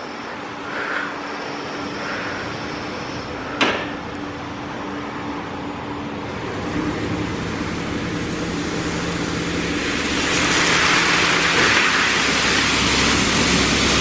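Automatic car wash equipment running with a steady motor hum and a single sharp click about four seconds in; water spray hitting the car builds from about halfway through and becomes a loud, even rush near the end.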